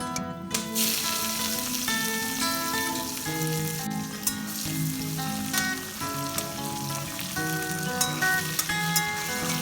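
Food sizzling as it fries in hot oil in a pan, starting under a second in, with scattered sharp ticks. A plucked-string melody plays throughout.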